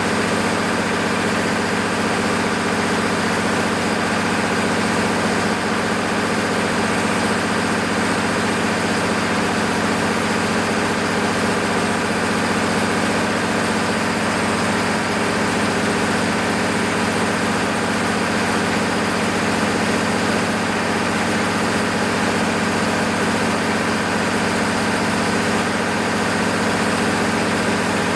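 Six-cylinder diesel engine of an MEP-006A 60 kW military generator set running steadily at constant speed, its pitch and loudness unchanging, freshly rebuilt and under load testing.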